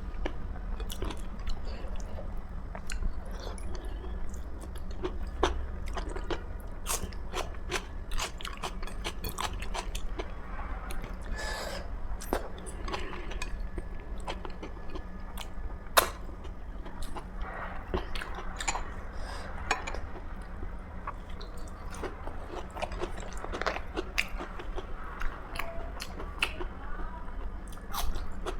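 A person chewing and biting food close to the microphone: a steady stream of irregular mouth clicks and chewing, with some crunchy bites.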